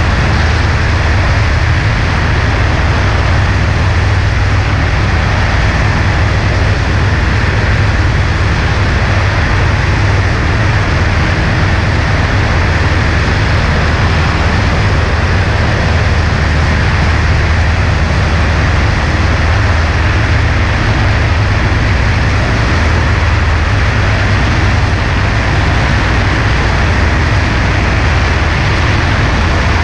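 Cessna 140A light airplane in flight: its piston engine and propeller drone steadily under a constant rush of wind.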